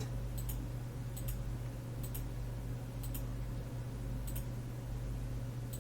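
Several faint computer mouse clicks, roughly one a second, over a steady low electrical hum from the microphone.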